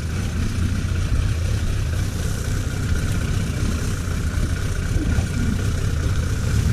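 1991 Suzuki GSX1100F's inline-four engine idling steadily at low revs.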